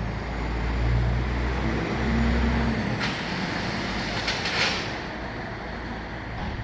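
BMW 316i four-cylinder engine heard through its exhaust: a deep note swells about a second in, holds, and drops back after about three seconds to a lower running note. A short clatter of clicks follows near the middle.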